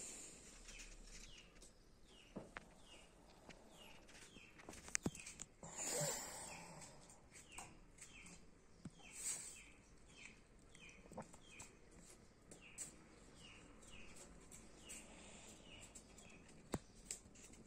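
Faint bird chirping, a short falling chirp repeated about once or twice a second, with a few sharp clicks and a brief rustle as a knife cuts eggplant over a pot of salted water.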